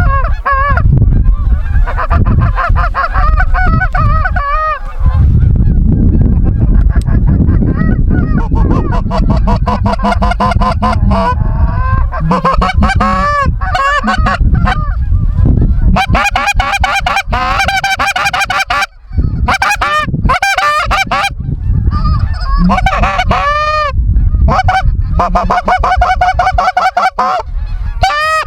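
A large flock of snow geese calling continuously, many high, nasal honks overlapping, with a low rumble underneath.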